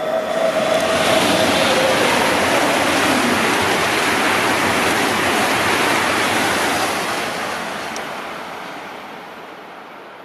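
ICE high-speed electric train passing at speed: a loud, steady rush of wheel, rail and air noise, with a falling whine in the first two seconds. The noise fades away over the last few seconds as the train recedes.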